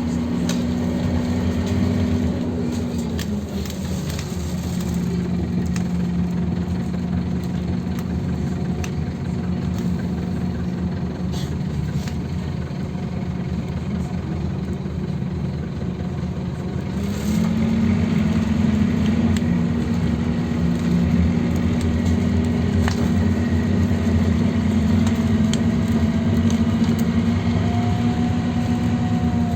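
Scania OmniLink CK270UB city bus engine running steadily. Its note drops to a lower pitch about three seconds in, then rises and grows louder from about halfway through.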